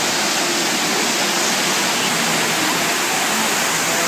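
Man-made waterfall pouring: a steady, loud rush of falling water with no change.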